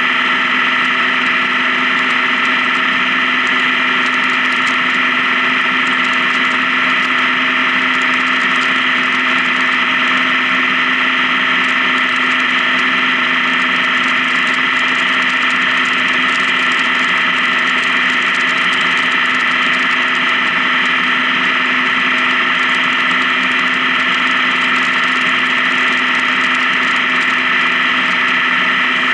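Honda Gold Wing touring motorcycle's engine running at a steady speed while cruising, a constant drone with no change in pitch or level.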